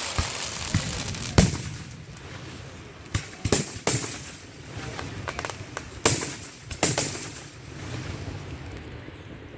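Fireworks bursting: a crackling hiss, then a series of separate sharp bangs a second or two apart, some with a short echo, the loudest about a second and a half in.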